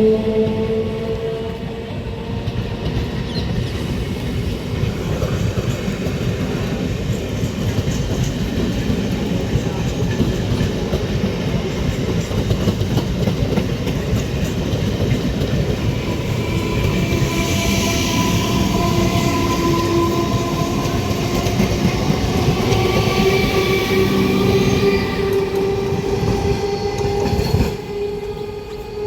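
A high-speed passenger train running past at speed: a steady rumble of wheels on rail, with a sustained whine whose pitch slowly drifts, easing off near the end.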